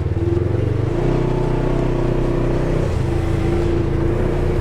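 Polaris side-by-side UTV engine running while driving on a trail, its note shifting a couple of times as the speed changes.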